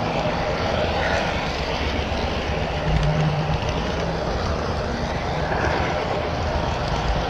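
HO scale model train running on the layout: a steady rolling rumble with a faint motor hum that swells briefly about three seconds in.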